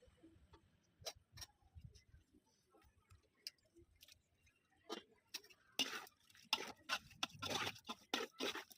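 Scattered clicks and short scraping sounds of cooking utensils being handled. They are sparse at first and come thicker and louder in the second half.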